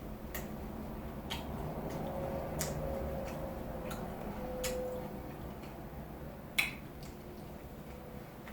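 Close-miked chewing: scattered sharp mouth clicks and smacks over a low steady background, with one louder click about six and a half seconds in.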